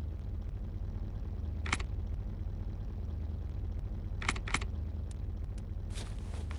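Steady low hum of an idling vehicle engine, with a sharp click a little under two seconds in and two quick clicks about four and a half seconds in; footsteps start near the end.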